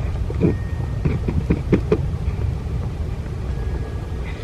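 Wind buffeting the microphone as a steady low rumble, with a quick run of short clicks in the first two seconds.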